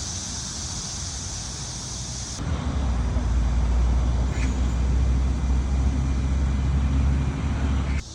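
Steady low engine hum of a road vehicle idling or moving slowly, which starts abruptly about two seconds in and stops sharply near the end. Before it comes a steady high hiss.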